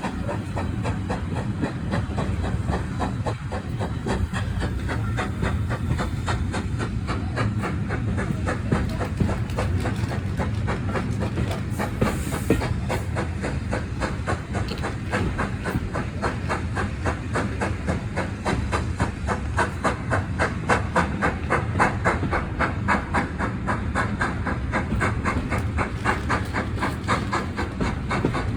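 Steam-hauled heritage passenger train running along the line: a steady rumble with a fast, even beat of wheels and chuffs that grows stronger in the second half.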